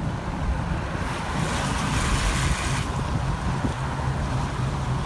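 Wind buffeting the microphone over a steady low rumble, with a burst of hiss about a second and a half in that lasts roughly a second and a half.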